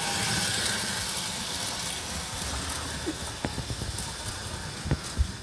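O-scale model train, a Menards F7 diesel locomotive pulling two cars, rolling along its track: a steady rumble of wheels and motor with a hiss over it, and a few sharp clicks in the second half.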